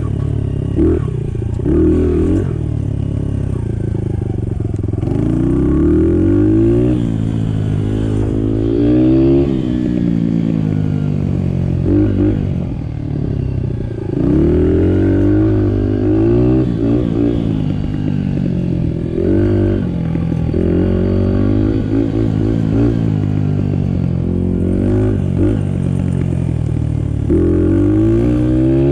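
Honda 50cc dirt bike's small four-stroke single-cylinder engine being ridden, its pitch rising and falling every few seconds as the throttle is opened and closed.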